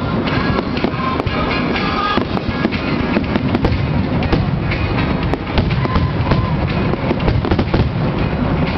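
Aerial fireworks going off: a dense, unbroken run of bangs, pops and crackles from many shell bursts overlapping.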